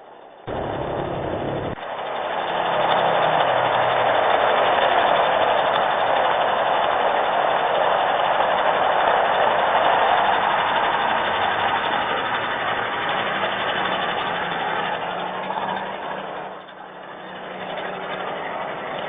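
A motor vehicle on a wet road: a loud, steady hiss of tyres and engine noise that comes in suddenly about half a second in, eases off near the end, then swells again briefly.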